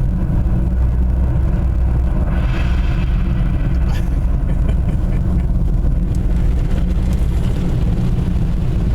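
Automatic car wash equipment running, heard from inside the car: a loud, steady low rumble, with a brief rise of hiss about two and a half seconds in.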